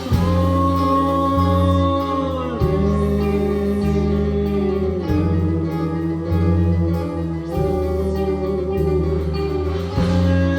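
Live band playing: guitar over a steady bass line, with long held melody notes that change about every two and a half seconds, each sliding down in pitch at its end.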